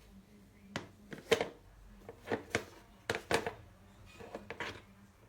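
Plastic food-storage containers being handled: about a dozen short clicks and knocks in small clusters, the loudest about a second and a half in.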